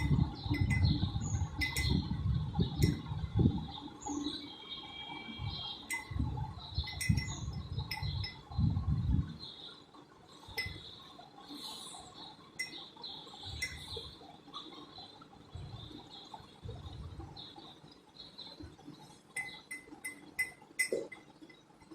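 Light metallic clinks at irregular intervals, over low rumbling that fades out about nine seconds in.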